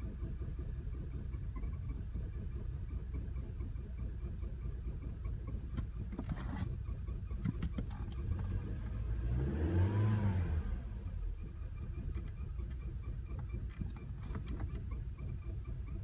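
2010 VW CC engine idling rough and uneven at low revs, the misfiring idle that comes with a flashing check engine light. About eight seconds in it is revved briefly, rising and falling back to the rough idle by about eleven seconds.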